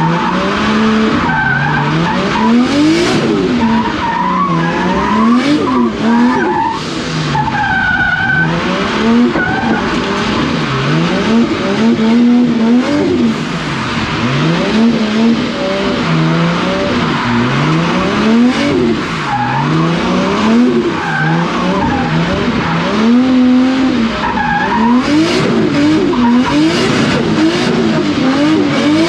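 A drift car's engine revving up and falling back again and again, every second or two, as its rear tyres squeal and scrub through a slide.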